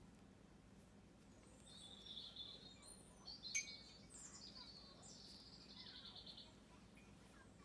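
Faint birdsong: several high chirping phrases, one sweeping down into a rapid trill. A single sharp click about three and a half seconds in.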